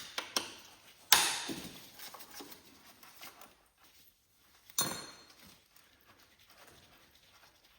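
A few sharp clanks and knocks of hand tools on metal, the loudest about a second in and again near five seconds, each ringing away briefly, with fainter ticks between, as the engine's mounting bolts are being taken out.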